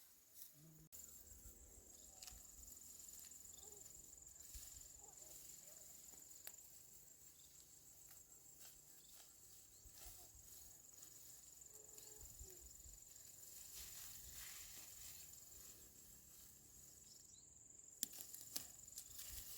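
Faint, steady high-pitched trilling of insects such as crickets or cicadas, which breaks off briefly near the end, over scattered faint rustles and clicks.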